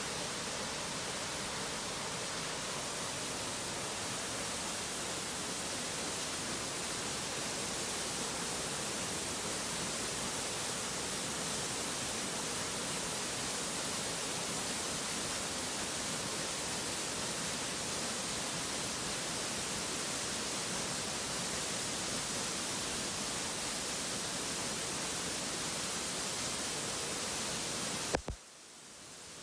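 Steady hiss of heavy rain falling. Near the end there is a click, and the sound drops away briefly.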